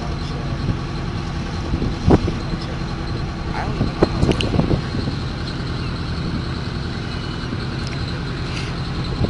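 A boat's engine running steadily with a low drone, with a few short knocks about two seconds and four seconds in.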